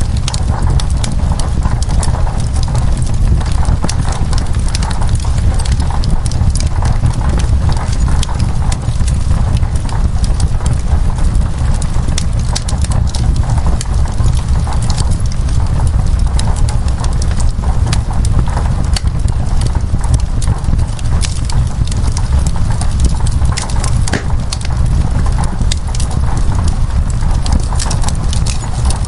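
Wood fire crackling, with many sharp pops and snaps over a steady low rumble, along with the even rush of rain on window glass.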